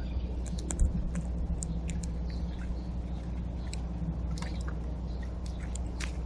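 Animals feeding at a backyard bird feeder: irregular small clicks and taps of seed being picked and cracked, with one louder knock just under a second in, over a steady low hum.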